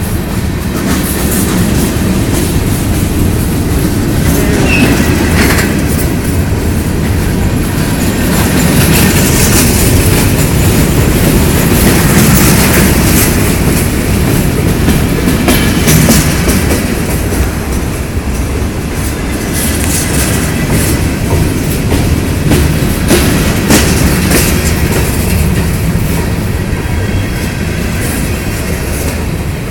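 Freight train cars rolling past, the wheels clacking steadily over rail joints, with a brief wheel squeal about five seconds in.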